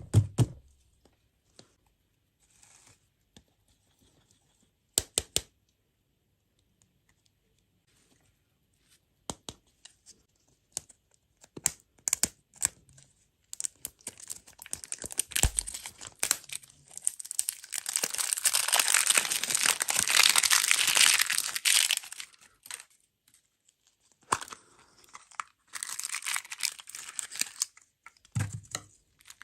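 Food packaging being handled and torn open: scattered clicks and taps at first, then a long spell of crinkling and tearing about halfway in, and another shorter one near the end.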